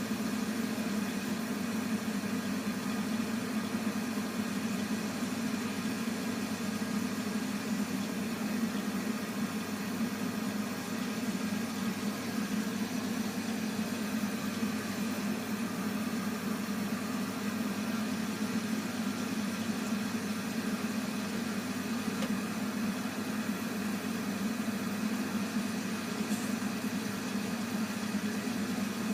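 Heating boiler humming: a steady, unchanging drone with a strong low hum and fainter steady tones above it, the unwanted noise the owner is trying to track down.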